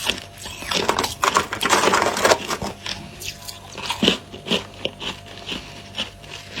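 Freezer frost being bitten and chewed, a dense run of crisp icy crunching early on that settles into regular chews about two a second.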